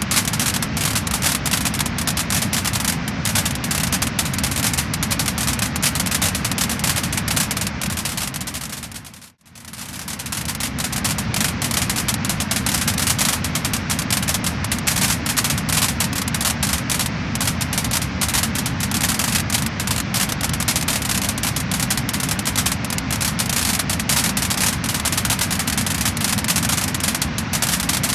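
Wood fire burning in a fireplace, with dense crackling and popping over a steady low rush of flame. The sound fades almost to nothing about nine seconds in and swells back up.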